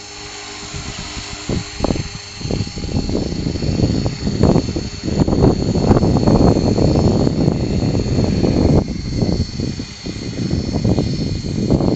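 Align T-Rex 450 Pro electric RC helicopter hovering with a steady high motor-and-gear whine. Its rotor wash buffets the microphone with uneven rushing noise that builds about two seconds in, dips briefly around nine seconds and comes back.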